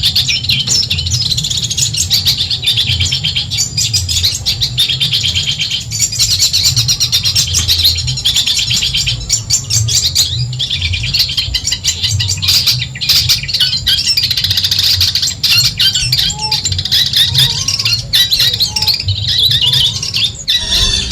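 Long-tailed shrike (cendet) singing a rapid, chattering song of fast repeated high notes, almost without pause, over a steady low hum.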